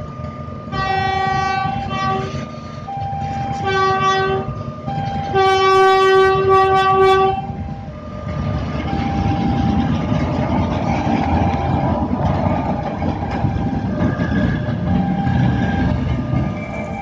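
A level-crossing warning alarm alternates between two tones while the approaching Batara Kresna railbus sounds its horn three times, the last blast the longest. From about eight seconds in, the train's heavy rumble takes over as it rolls through the crossing, with the alarm still sounding faintly under it.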